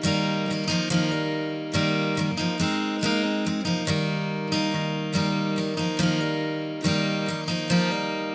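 Background music: acoustic guitar strumming chords in a slow, even rhythm.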